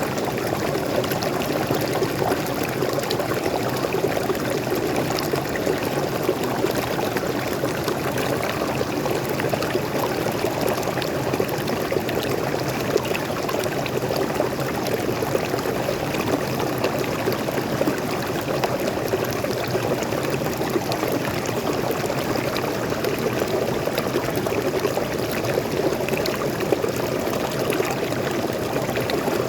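Waterfall: freshwater pouring and splashing in an even, unbroken rush, deepest in the low-middle range.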